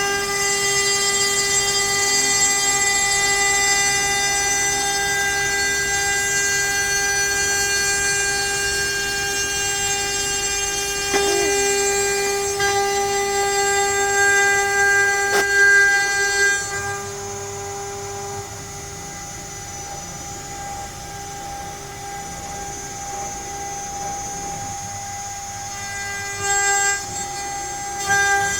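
CNC router spindle running with a steady high-pitched whine while the bit cuts letters into pine. About two-thirds of the way through the sound gets quieter and thinner, with a couple of short louder bursts near the end.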